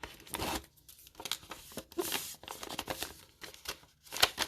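Booster packs and paper envelopes being handled: irregular bursts of crinkling and rustling with a few sharp snaps, the loudest near the end.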